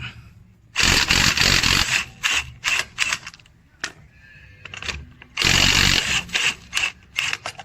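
Cordless impact wrench hammering in two bursts of about a second each, the first about a second in and the second about two-thirds of the way through. Each burst is followed by a few short trigger blips.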